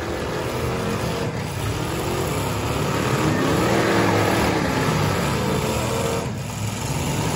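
Several eight-cylinder demolition derby cars' engines running and revving up and down as they drive around the arena.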